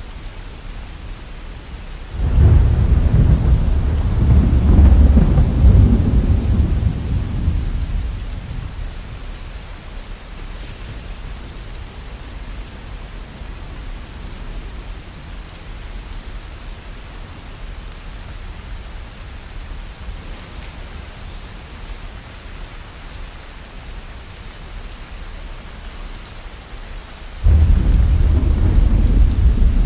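Heavy rain falling steadily with a constant hiss. Thunder rolls in twice: a deep rumble starts suddenly about two seconds in and dies away over several seconds, and another breaks abruptly near the end.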